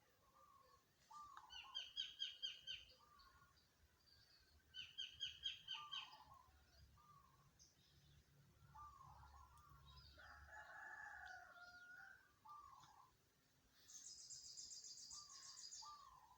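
Several birds calling and singing. There are two bursts of quick, ringing repeated notes early on, short lower calls scattered throughout, a drawn-out two-tone call midway, and a fast high trill near the end.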